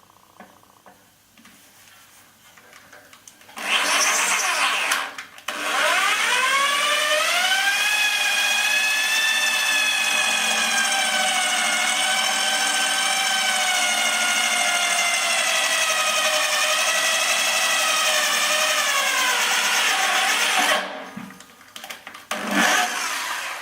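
Electric drill boring holes in metal: a short first burst, then a long run of about fifteen seconds, its whine rising as the motor comes up to speed and falling away as it stops, then another short burst near the end.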